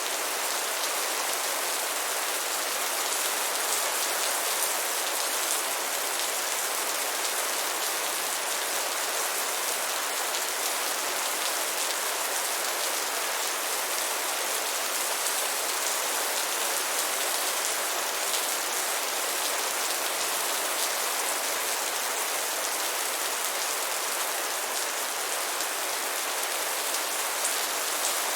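Steady rain: a dense, even hiss of many small drops falling, with no change in strength.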